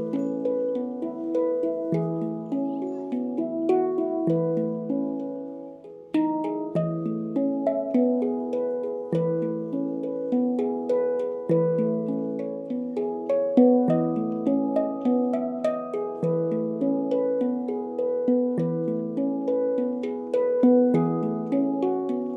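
Handpan played by hand: a steady stream of struck notes ringing with bright, bell-like overtones. The notes fade briefly about six seconds in, then playing resumes.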